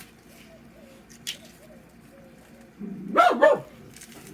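A dog barking twice in quick succession about three seconds in, with a short sharp click a little after a second in.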